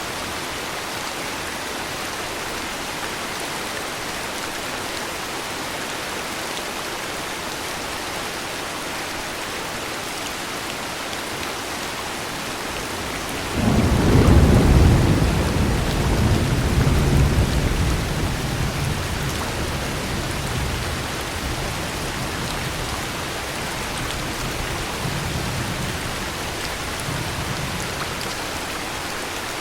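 Steady heavy rain. About halfway through, a clap of thunder breaks suddenly and rolls on as a deep rumble, fading over about a dozen seconds.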